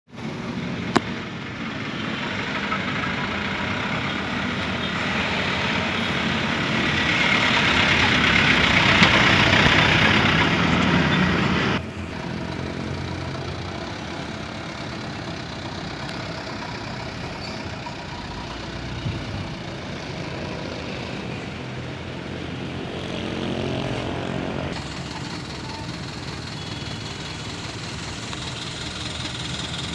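Dump truck's diesel engine running: loud and hard-working for about the first twelve seconds, then abruptly steadier and quieter, with a brief rising rev a little past halfway.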